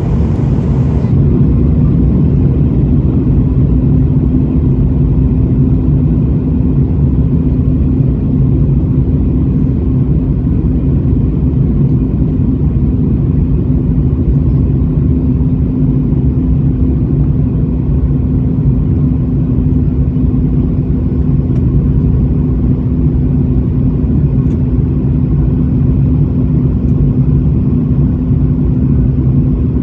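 Passenger airliner's steady engine and airflow drone during the approach to landing: a loud, even rumble with a constant low hum running through it.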